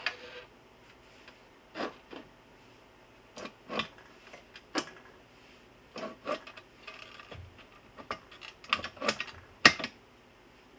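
Irregular clicks and knocks of metal hardware and tools being handled, about a dozen sharp strikes scattered through, some with a short ring, thickest near the end.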